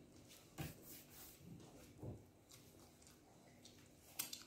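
Faint mouth sounds of someone biting and chewing a piece of chicken: three short, soft smacks spaced a second or two apart over a quiet room.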